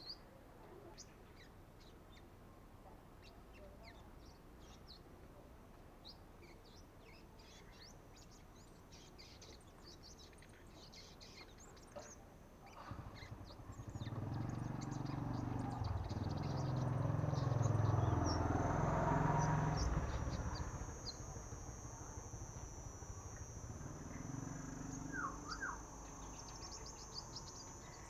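Young sunbirds practising song: short, high chirps and twitters come scattered throughout. Midway a louder low rumble swells up and fades over about seven seconds, and later a steady high-pitched buzz sets in beneath the chirps.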